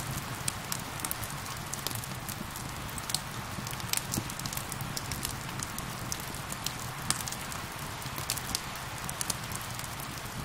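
Crackling wood fire, irregular sharp pops and snaps, over a steady hiss of rain.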